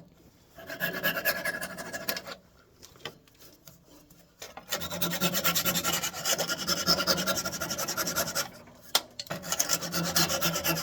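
A saw cutting through the wooden dowels that stick out of a walnut desk leg, rasping in three spells of quick strokes with short pauses between them.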